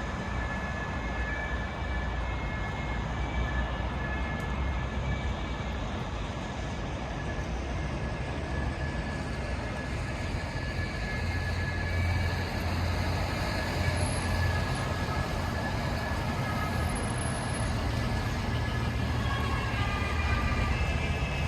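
Steady city street traffic noise, with a low rumble of passing vehicles that grows louder about halfway through.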